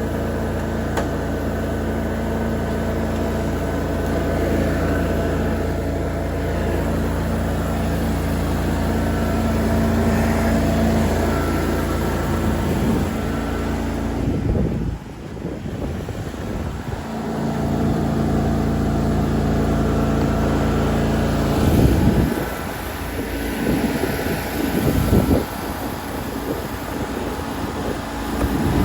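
Lawn mower engine running steadily under mowing load. Its level drops for a couple of seconds about halfway through, and it wavers with a few swells later on.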